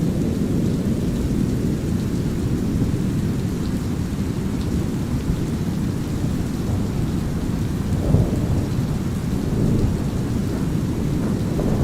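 Thunderstorm soundscape: a deep, steady brown-noise hiss under light drizzle, with rolling thunder. One rumble swells about eight seconds in and another builds near the end.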